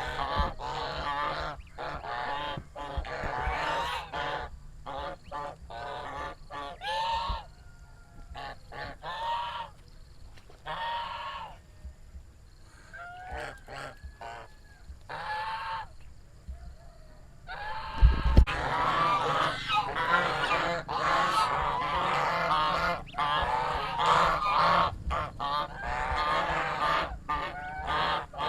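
Several geese honking, their calls overlapping: busy at first, thinning out to scattered honks in the middle, then crowding together again after a sharp thump about eighteen seconds in.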